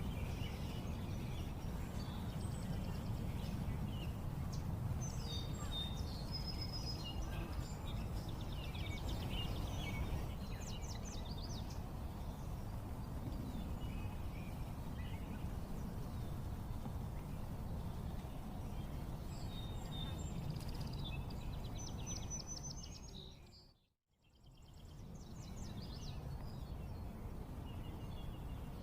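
Outdoor nature ambience: small birds chirping and trilling over a steady low rumble of background noise. The sound fades out to silence and back in near the end.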